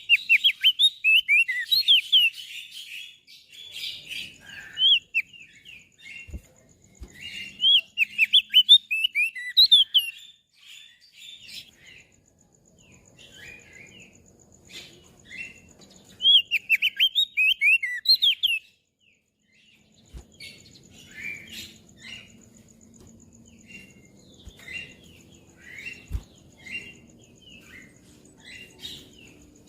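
Crested white-eye (opior jambul) singing: fast runs of high, chirping notes in three loud bursts, at the start, about a quarter of the way in and just past halfway, with quieter, scattered chirps between.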